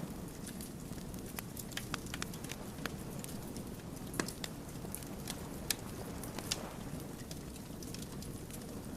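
Wood fire burning steadily with a low rumble and irregular sharp crackles and pops of the burning logs.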